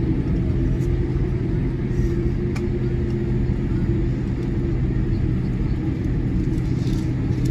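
Steady low rumble and hum inside the cabin of a Boeing 787-8 Dreamliner taxiing with its engines at idle, with a few faint ticks and rattles.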